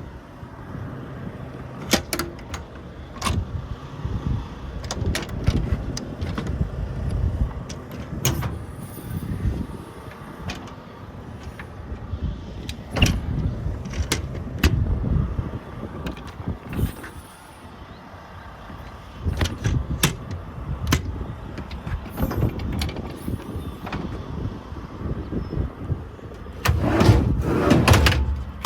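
Uneven low rumble of movement and handling noise around a work truck, with scattered sharp clicks and knocks, several in the first half and a louder busy stretch near the end.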